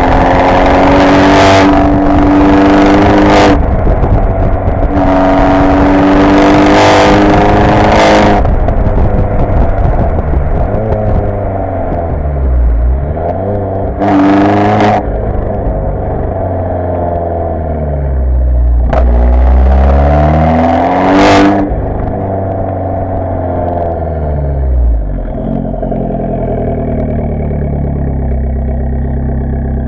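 Abarth 595 Competizione's 1.4-litre turbocharged four-cylinder through a Record Monza exhaust with its valve open, held at high revs twice for a few seconds. The revs then rise and fall several times with two short sharp blips, and settle to a low, steady idle near the end.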